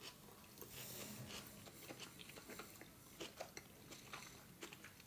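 Faint chewing of a mouthful of soft gnocchi, with small wet mouth clicks scattered through it.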